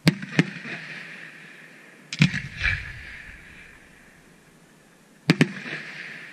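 Fireworks aerial shells bursting with sharp bangs: a pair at the start, another about two seconds in, and a pair near the end. Each bang trails off over about half a second.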